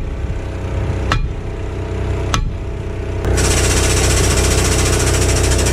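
A heavy vehicle engine running steadily, with two sharp metal knocks in the first half. About halfway through it speeds up and gets louder, then holds there.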